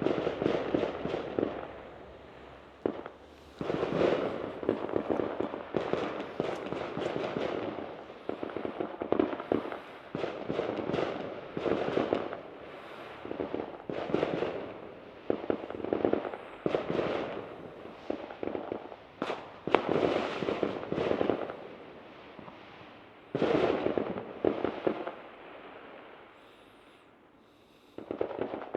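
Fireworks going off in repeated crackling volleys, each a rapid cluster of bangs lasting a second or two, with short pauses between and a longer lull near the end.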